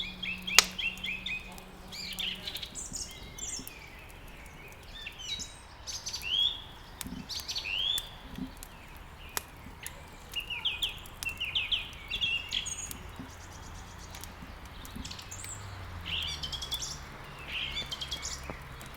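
Songbirds chirping and singing in quick, repeated downward-sweeping phrases, over scattered sharp crackles and pops of burning firewood, the loudest pop about half a second in.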